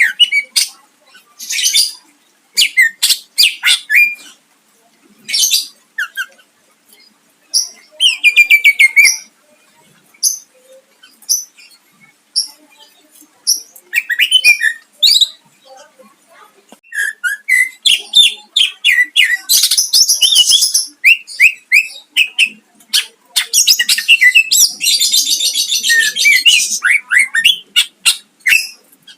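Cucak ijo (green leafbird) singing loudly: a run of sharp, high-pitched notes and short chirps, broken by quick trills. The song grows into dense, fast twittering in the second half. It is the bird's full song, mixed with imitated calls of other birds.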